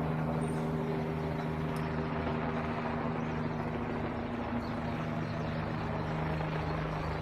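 NYPD police helicopter flying overhead: a steady drone of rotor and turbine with a few constant low tones, holding an even level.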